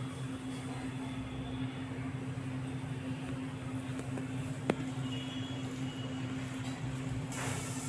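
A steady low machine hum, with a single sharp click about two-thirds of the way through.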